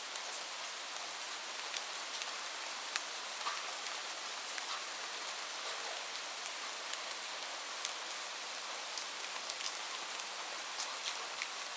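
Steady rain falling: an even hiss with many sharp individual drop ticks scattered through it.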